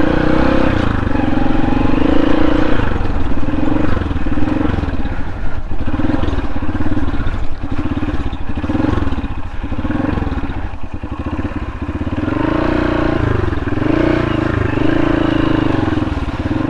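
Motorcycle engine running at low speed with repeated throttle blips, its revs rising and falling again and again.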